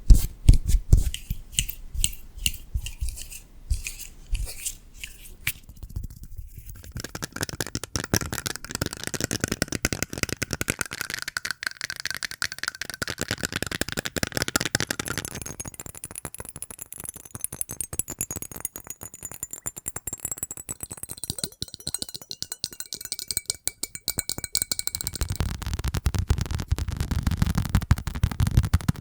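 Close-miked ASMR trigger sounds. Quick taps and clicks come first, then after about six seconds a long stretch of rapid scratching and rubbing on objects.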